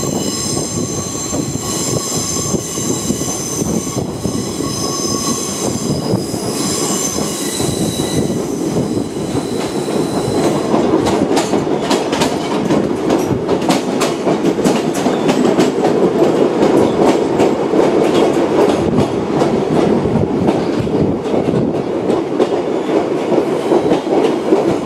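Sightseeing train's open trolley car running along the track, with a steady rolling rumble throughout. For the first eight seconds or so the wheels squeal in high, steady tones. From about ten seconds in the squeal fades, and the rumble grows louder with many sharp clicks and knocks from the wheels and rails.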